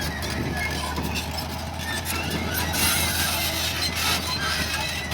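Heavy earthmoving machinery at work: a steady low diesel engine drone under a busy clatter of small metallic clanks and squeaks.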